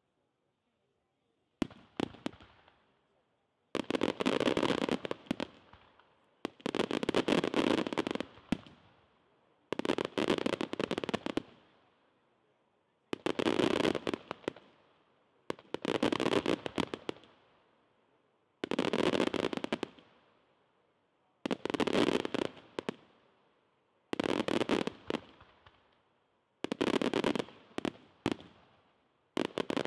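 Aerial fireworks show: a run of about ten salvos of shell bursts, each a dense rattle of bangs and crackle lasting a second or two and fading away. The salvos come every two to three seconds, starting a couple of seconds in.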